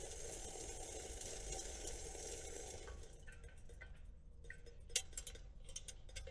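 A steady hiss for about three seconds, then a few light clinks and taps of metal cookware and utensils, one sharper clink about five seconds in.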